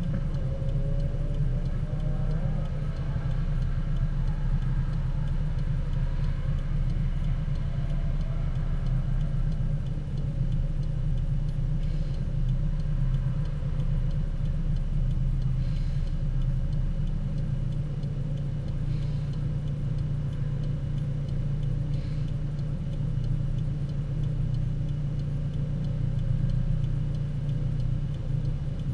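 Car engine idling steadily, a low even rumble heard from inside the cabin.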